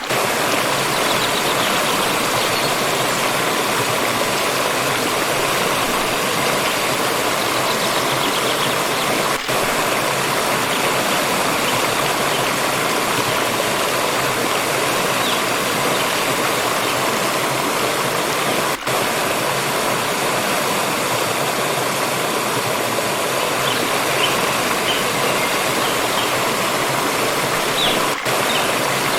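Steady rushing of a flowing water stream, an even unbroken wash of water sound with three brief dips about nine seconds apart.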